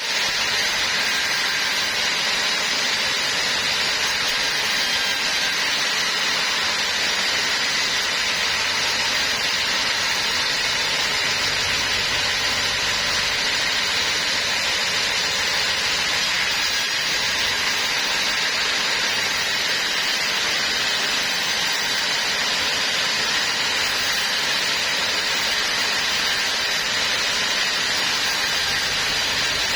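Sawmill saw machinery running steadily, a loud even hissing whine that stays unchanged throughout.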